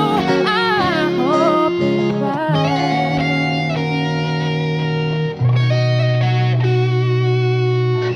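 Instrumental outro of a slow R&B song: electric guitar and bass hold long chords. The bass changes note about every three seconds, and a bending melodic line runs over the first two seconds.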